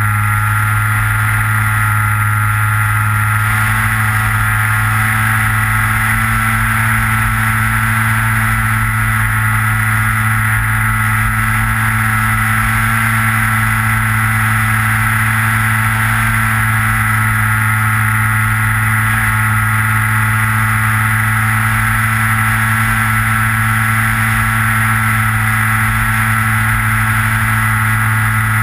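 Skywalker FPV model plane's electric motor and propeller, heard from a camera on board, running at a steady cruise throttle: an even, unchanging whine with a low hum beneath it.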